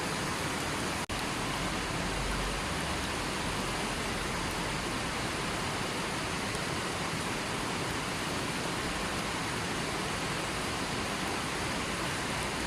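River water flowing steadily, an even rushing wash with no pauses, except for a momentary dropout about a second in.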